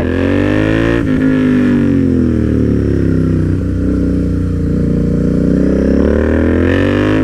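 Royal Enfield Interceptor 650's parallel-twin engine with an aftermarket exhaust, running under load as the bike is ridden. Its pitch climbs, breaks off briefly about a second in, sinks slowly, then rises again near the end.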